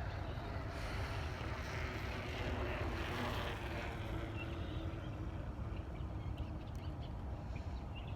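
Distant airliner jet engines at the airport: a steady low rumble and hiss with a faint whine, swelling slightly about three seconds in.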